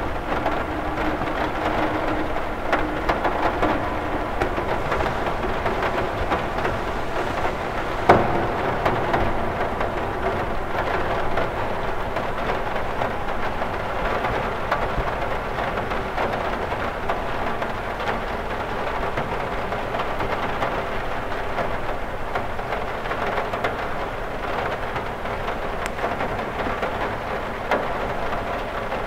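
Rain falling steadily on a cathedral window, an even patter of drops on the glass, with one sharper, louder tap about eight seconds in.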